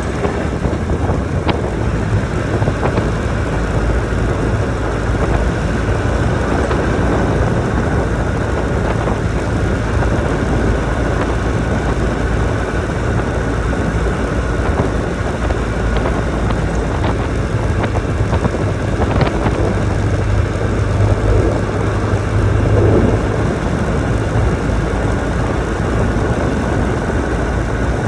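Motorcycle engine running steadily at a constant speed, with a low hum and no revving.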